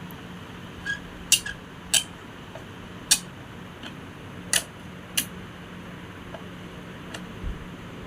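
Sharp metallic clicks and clinks, about eight spread irregularly, from tools and metal parts of an electric wall fan being handled during repair, over a faint steady low hum.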